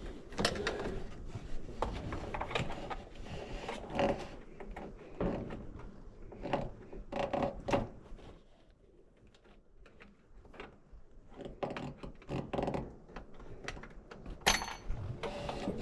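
Intermittent clicks, knocks and rattles of hand work on an LS engine's fuel injectors and fuel rail, likely plastic connector clips being popped off, with a quieter pause around the middle.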